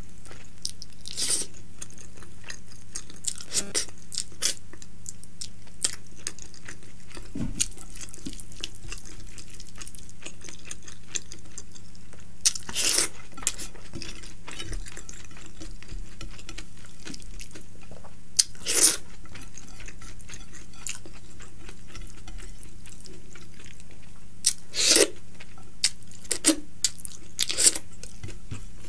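Close-miked eating: wet chewing and mouth smacks of rice mixed with curry eaten by hand, with about half a dozen sharp wet smacks standing out, over a steady low hum.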